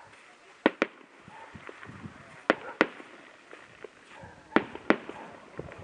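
Aerial fireworks shells bursting: three pairs of sharp bangs about two seconds apart, and a weaker bang near the end.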